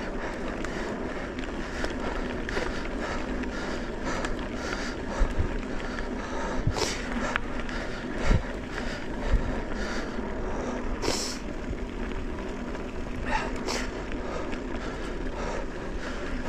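Off-road vehicle engine running steadily while riding a rough trail, with a few low thuds over bumps and a few brief hissing scrapes.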